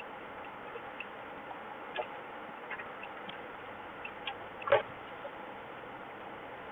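Irregular light ticks and taps over a steady hiss, with one louder tap about four and a half seconds in.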